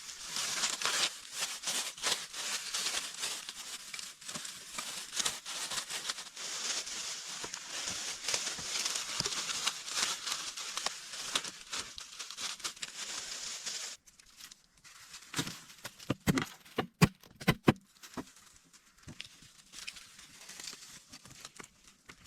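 Dense rustling and crackling with many small clicks, which cuts off abruptly about fourteen seconds in. A short run of sharp knocks follows.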